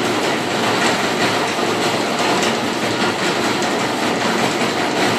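A 1948 Robot Appliance Corp "Robot Operator" garage door opener's electric motor and drive running steadily under power, with a continuous fast rattle.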